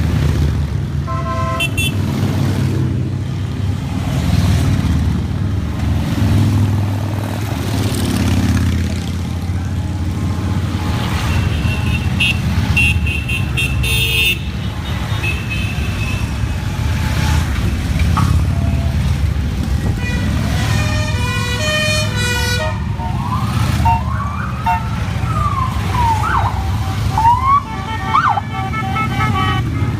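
A continuous rumble of many motorcycle engines as a long column of bikes rides past. Horns toot several times. In the last third a siren-like wail rises and falls over and over.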